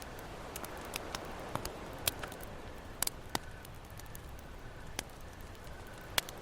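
Wood campfire crackling, with irregular sharp pops of varying loudness, the loudest near the end, over a steady wash of ocean surf.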